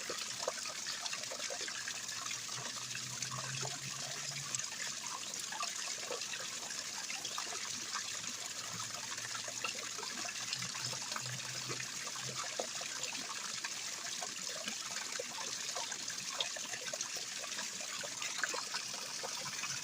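Rainwater trickling and splashing down small miniature waterfalls, a steady running-water sound flecked with many small splashes.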